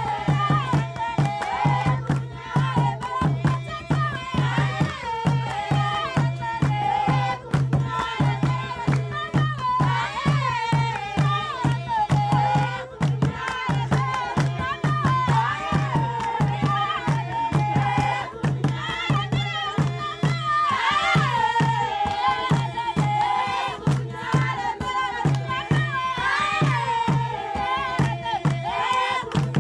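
A group of voices singing together over a steady, evenly repeating drum beat, in a folk style.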